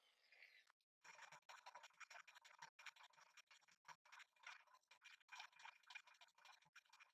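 Faint, rapid scratching: many short, irregular strokes, a few every second, starting about a second in.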